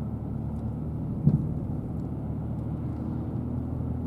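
Car engine and road noise heard from inside a moving vehicle: a steady low drone, with one short thump about a second in.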